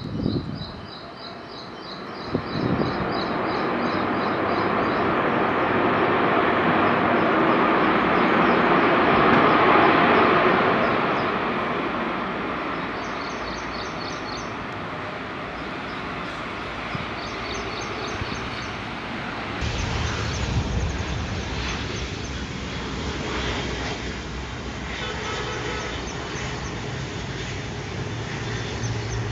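Airbus A330 airliner's jet engines: the noise swells to a peak about ten seconds in, then slowly fades, changing to a lower rumble about two-thirds of the way through.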